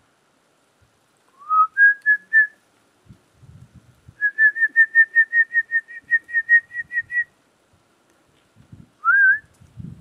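A person whistling to call a dog. First comes a rising whistle and three short notes, then a quick run of about fifteen short notes, roughly five a second, and one more rising whistle near the end.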